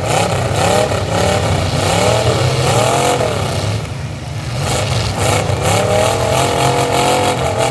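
Demolition derby truck engines revving hard, rising and falling over and over, then held at high revs near the end.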